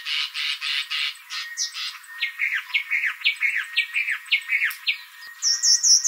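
Bird calls: a fast series of short notes, then a run of separate downslurred whistles about three a second, with a higher, faster series of notes joining near the end.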